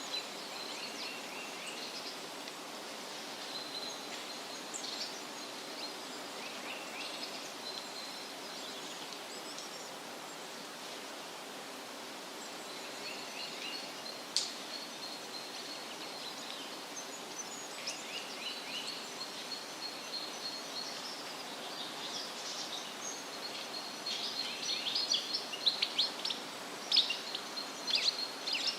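Steady wind rustling through leafy trees, with several small birds chirping and trilling on and off. There is one sharp high note about halfway through, and near the end comes a denser, louder flurry of quick chirps.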